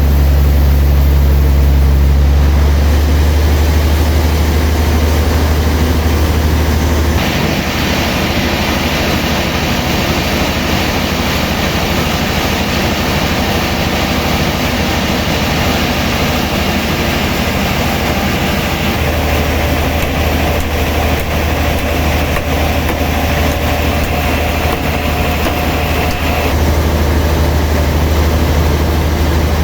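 Sawmill machinery running steadily with a heavy, low hum. About seven seconds in the sound changes and a higher whine joins it, which stops a few seconds before the end.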